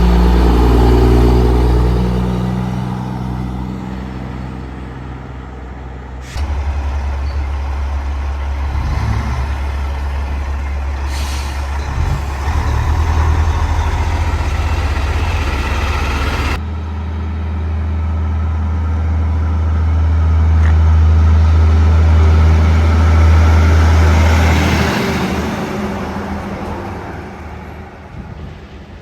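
Semi-truck diesel engines driving past, a loud low drone that changes abruptly twice, swells once more and then fades away.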